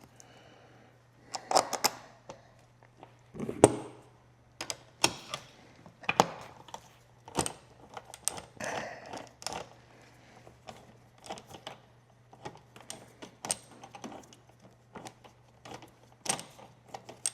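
Irregular clicks, taps and light rattles of parts being handled and fitted by hand on a motorcycle's airbox and throttle-cable area, over a low steady hum.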